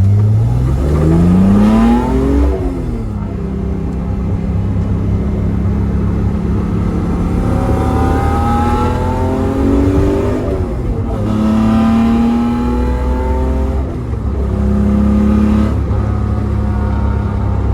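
Datsun Z's modified L28 straight-six on twin SU carburettors, breathing through a Z-Story Race/Sport header, centre resonator and Thrush 17715 turbo muffler, driven under way. The engine note climbs in the first two seconds, drops back as if at a gear change, holds steady, then rises and falls several more times as the car is accelerated and eased off.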